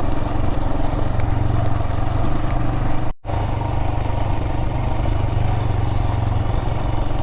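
Adventure motorcycle engine running steadily under way, with road noise, broken by a brief gap in the sound about three seconds in.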